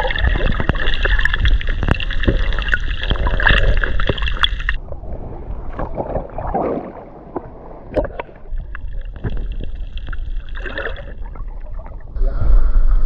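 Water gurgling and sloshing around the microphone during snorkeling. It drops and turns quieter about five seconds in, then comes back loud near the end.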